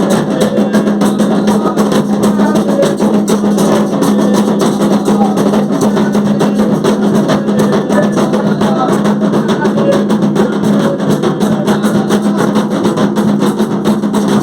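Drum-led percussion music of the kind played for the orixás: drums keep a fast, dense, unbroken rhythm, with a steady low tone running underneath.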